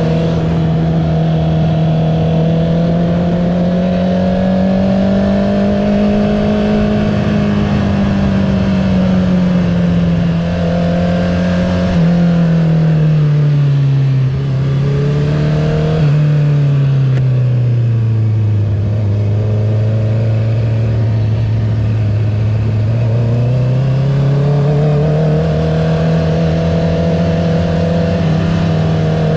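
2021 Honda CB650R's inline-four running through an Akrapovic full titanium racing exhaust with the dB killer removed, heard while riding. The engine note sinks through the middle as the bike slows, jumps up suddenly about 16 seconds in as with a downshift, then climbs again near the end.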